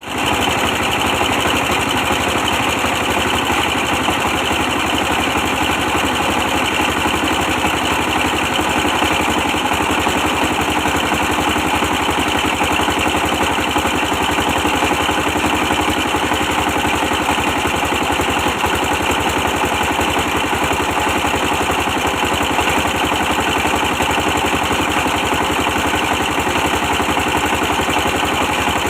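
Old 24 hp stationary diesel engine running steadily, a fast, even stream of firing pulses with no change in speed.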